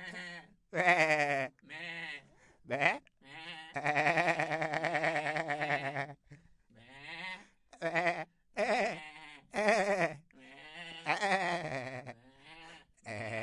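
Goats bleating: a quick series of short, wavering bleats, with one long quavering bleat about four seconds in.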